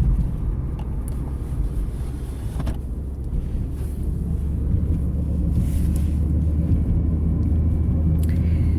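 Car driving on a highway, heard from inside the cabin: a steady low rumble of road and engine noise, a little louder in the last few seconds.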